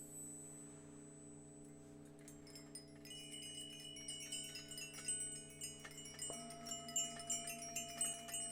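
Singing bowls ringing on in long steady tones, joined about two seconds in by a cascade of high, quick chime strikes tinkling over them. A further bowl is struck about six seconds in, adding a new tone.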